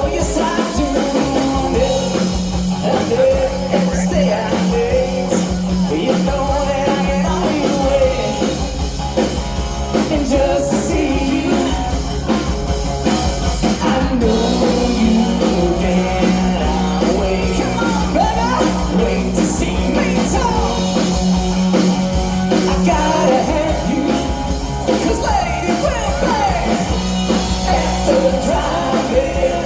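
Live rock band playing a song with a singer: vocals over guitar, bass and drums.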